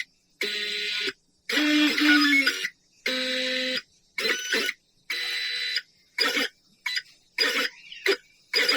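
Stepper motors of a CNC pen plotter whining through a series of short moves, each a steady buzzing tone that starts and stops abruptly, about a dozen in a row with silent pauses between them.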